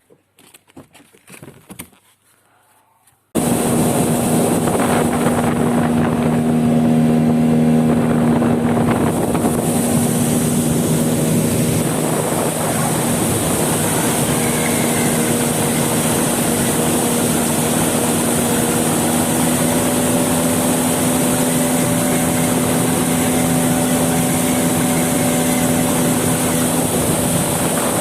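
A motorboat's outboard motor running steadily under way, with wind and rushing water noise. It comes in suddenly a few seconds in, after a brief stretch of faint handling sounds.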